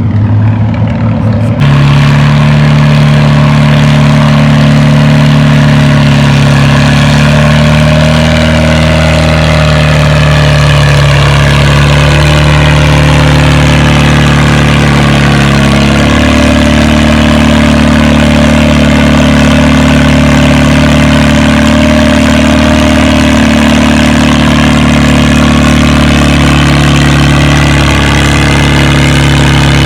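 Farmall 350 tractor engine working hard under load while pulling a weight-transfer sled, a loud steady drone that comes in about two seconds in. Its pitch sags slightly midway and then recovers.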